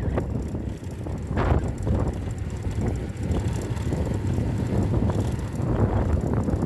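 Motorcycle riding along, its rumble mixed with wind buffeting the microphone, with a couple of short knocks or rattles.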